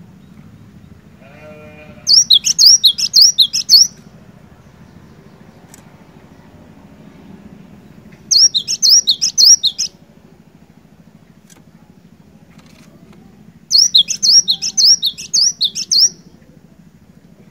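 Cinereous tit (glatik batu) singing: three loud phrases of rapidly repeated high, down-slurred notes, each about two seconds long and several seconds apart. A faint low hum runs underneath.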